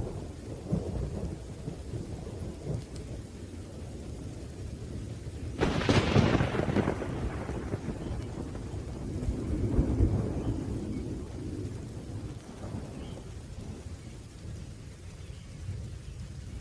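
Thunderstorm with rain falling and thunder rolling. A sharp thunderclap about six seconds in, and another swell of rumbling about ten seconds in.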